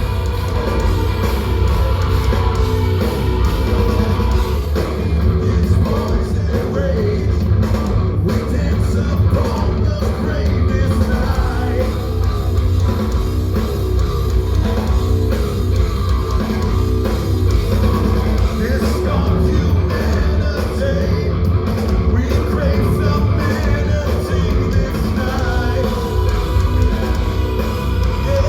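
Progressive metal band playing live at full volume: electric guitar over bass and drums in a loud, dense, unbroken wall of sound.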